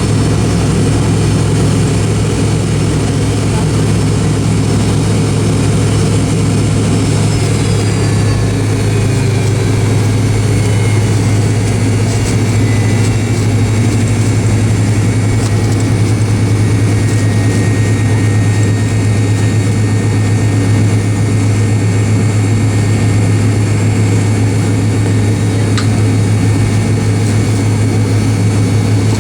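Steady jet engine noise inside the cabin of an MD-88, from its rear-mounted Pratt & Whitney JT8D turbofans: a strong low drone over a constant rush of noise. A faint whine glides down in pitch about seven to eleven seconds in.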